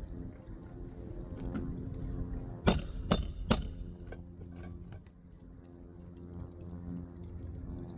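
Three quick hammer blows with a metallic ring, a roofing nail being driven by hand into an asphalt shingle, about three seconds in.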